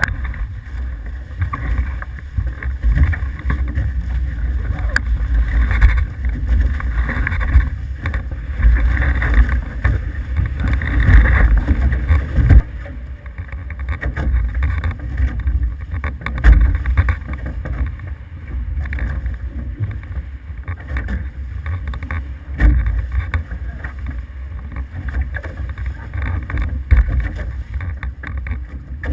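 Wind buffeting the microphone over the rush of water along the hulls of an F18 sailing catamaran under way. It is gustier and louder for the first dozen seconds, then steadier.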